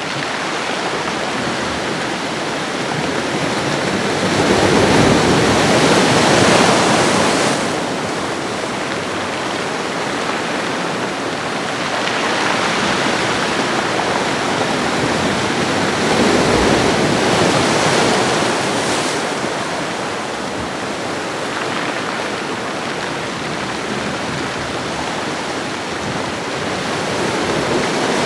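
Ocean waves washing onto a shore: a continuous rush of surf that swells louder about four seconds in, again from about twelve seconds, and once more near the end, easing back between surges.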